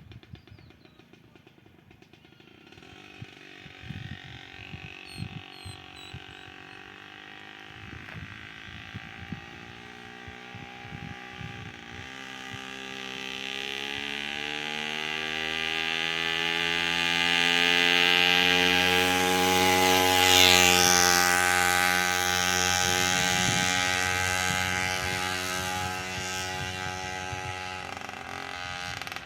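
Puch moped's 50 cc two-stroke single-cylinder engine running: irregular popping at first, then its note climbs steadily as it picks up revs, growing loudest about two-thirds of the way through before fading toward the end.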